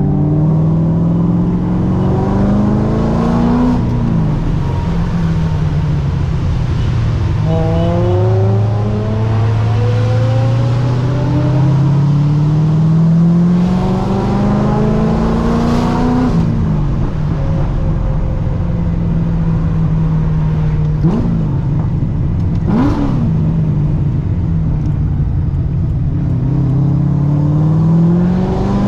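ProCharger-supercharged Corvette C6's LS3 V8 accelerating hard in three long pulls. The engine pitch climbs steadily and then drops sharply as the throttle comes off. Between the second and third pulls there are two short, sharp throttle blips.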